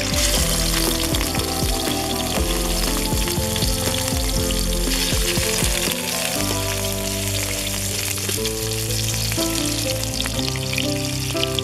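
Catfish steaks frying in hot oil in a wok, a steady sizzle that is loudest in the first few seconds, with background music underneath.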